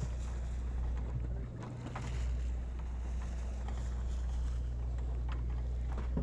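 Steady low drone of a fishing boat's engines, dipping briefly about one and a half seconds in, with a few faint clicks and knocks over it.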